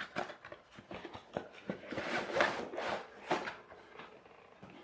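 Toy's cardboard box being opened and its packaging handled: a run of short scrapes and rustles, busiest about two to three and a half seconds in.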